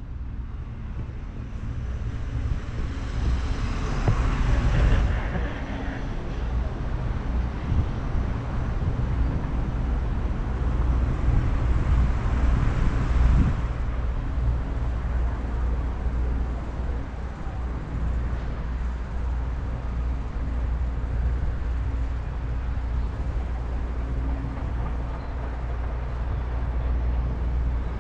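Steady outdoor road traffic rumble, with two vehicles swelling past about four seconds in and again about thirteen seconds in.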